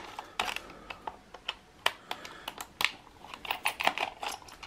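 Irregular small clicks and taps of screws, a small screwdriver and the plastic case of a Crown SZ-31 cassette Walkman being handled during disassembly, a few clicks a second.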